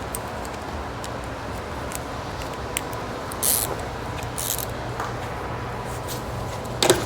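Two short hissing sprays about a second apart, a little past halfway, then a quick clatter of metal clinks near the end, over a steady background hum.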